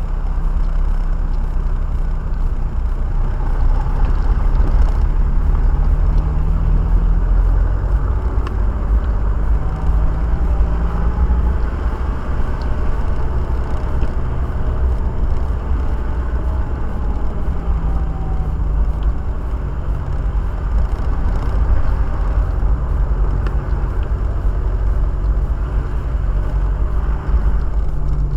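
A car driving, heard from inside the cabin: steady low road rumble and tyre noise with an engine hum that rises and falls a little.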